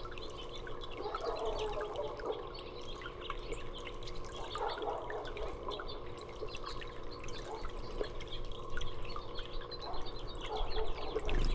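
Water dripping and trickling steadily, with many quick ticks and faint small-bird chirps mixed in.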